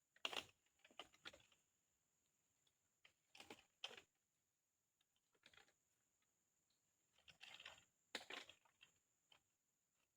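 Quiet clusters of light clicks and rustles, coming every second or two in short groups, like something small being handled, over a faint steady high-pitched hum.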